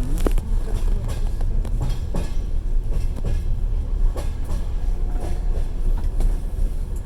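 Moving passenger train heard from inside the carriage: a steady low rumble with irregular clicks and knocks as the wheels run over the rail joints.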